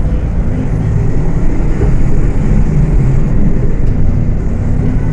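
Diesel engine of a Volksbus 18.280 OTS city bus running under way: a loud, steady drone whose pitch shifts slightly up and down as engine speed changes.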